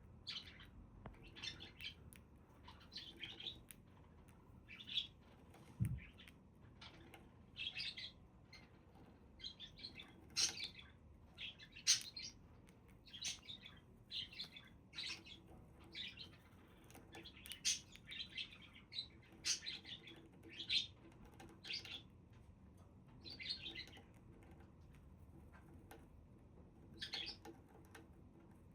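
Budgerigars chirping and chattering in many short, quick calls one after another, with a brief low thump about six seconds in.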